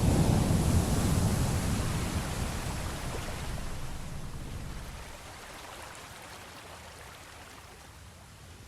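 Sea waves washing: a swell that is loudest at the start, then recedes and fades over about five seconds into a quieter hiss of water.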